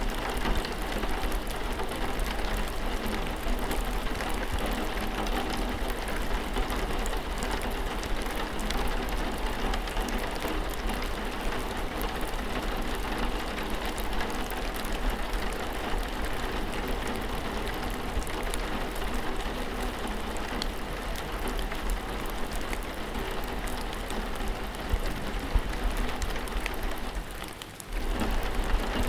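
Steady rainfall, with individual raindrops pattering and ticking over an even hiss. It briefly drops away a little after 27 seconds in, then comes straight back.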